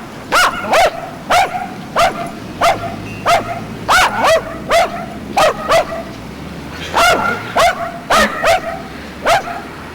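A dog barking over and over, short sharp barks about two a second, with a brief pause around six seconds in.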